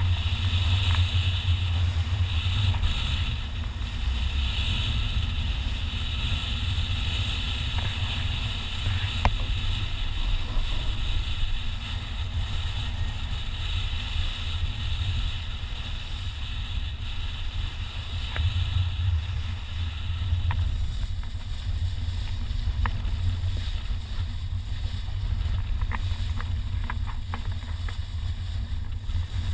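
Wind buffeting the microphone and water rushing along the hull of a sailing yacht under way, a steady low rumble with hiss above it and a few faint clicks in the second half.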